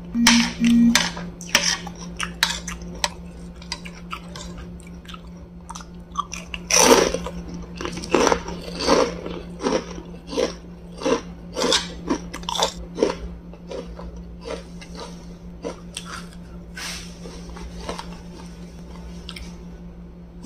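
Close-up chewing and crunching of crisp fried wonton (pangsit goreng) with sharp, irregular bites, loudest about a third of the way in, over a steady low hum.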